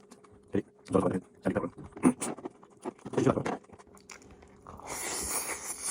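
Close-up sounds of a person eating: chewing and lip-smacking in irregular short bursts, then a steady hiss lasting about a second near the end.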